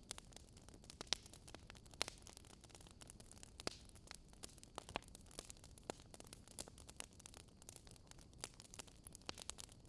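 Wood fire crackling: irregular sharp pops and snaps, several a second, over a faint low hiss.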